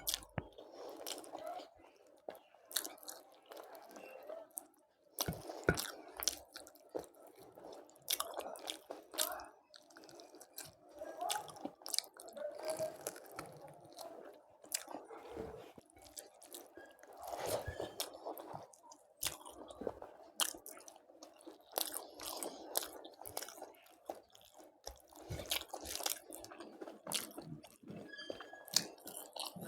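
A person chewing and biting crunchy food close to the microphone, with many irregular sharp crunches throughout.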